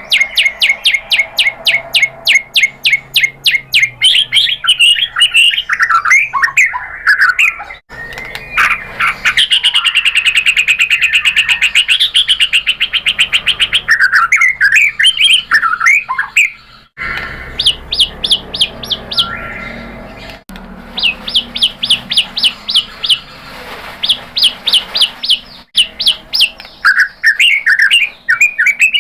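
White-rumped shama singing: fast runs of rapid repeated notes and trills mixed with warbling, sliding whistled phrases, broken by a few brief pauses.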